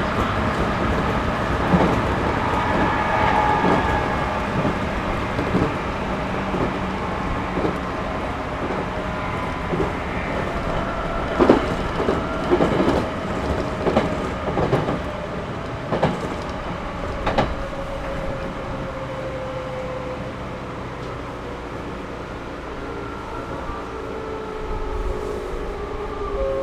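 Running noise heard inside a JR Series 211-5000 electric multiple unit, with the wheels clacking sharply over rail joints several times in the middle. Over the second half a whine from the motors and gears slides steadily down in pitch and the noise eases as the train slows.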